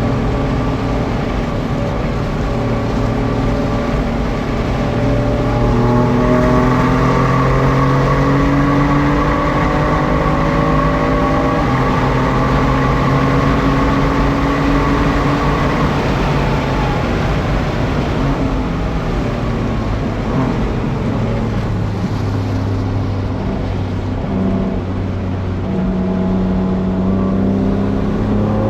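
BMW F82 M4's twin-turbo inline-six running under load, its pitch slowly climbing for the first dozen seconds, easing off about sixteen seconds in, then holding steady, over a constant hiss of rain and wet road noise.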